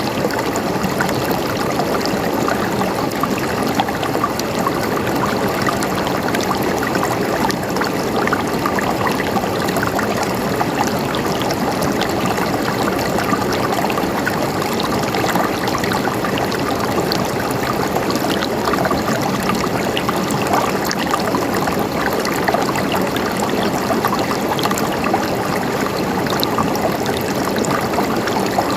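River water flowing steadily over rocks, a constant rushing and babbling with small splashes.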